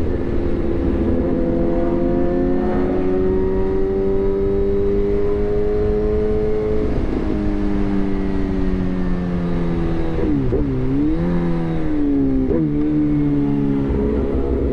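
Suzuki GSX-R1000R inline-four engine through a replica SC-Project exhaust, running under way. Its pitch climbs slowly for several seconds and drops about halfway through. It then dips sharply and recovers twice near the end as the throttle changes.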